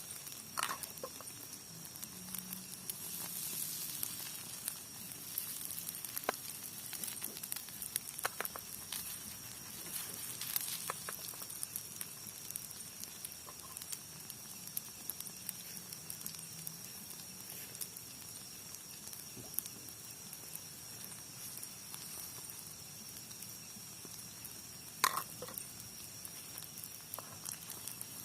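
Food sizzling in a non-stick frying pan, a steady hiss broken by scattered crackles and pops, one sharper pop near the end.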